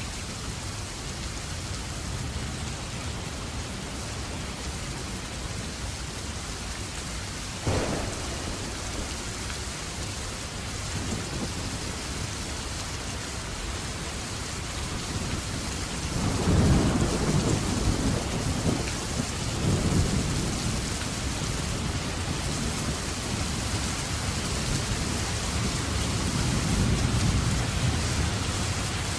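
Steady rain falling, with a sharp crack about a quarter of the way in and thunder rumbling in low swells through the second half.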